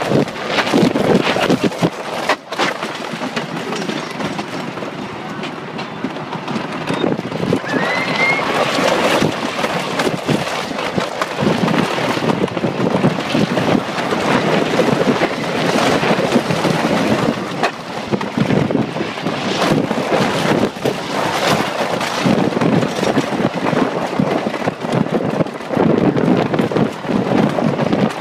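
Wooden roller coaster train running along its track: a continuous, uneven rattle with wind rushing over the microphone in the front seat.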